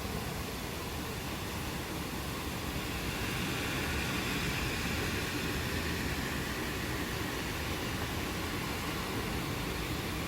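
Steady rain falling, an even hiss that swells slightly a few seconds in.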